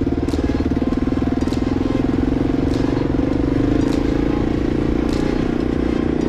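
Kawasaki KLR 650's single-cylinder four-stroke engine running steadily under way, with a sharp click about once a second.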